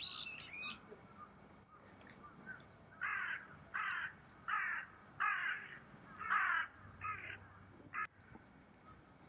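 A bird calling: a brief higher chirp right at the start, then a series of about seven harsh calls, spaced a little under a second apart.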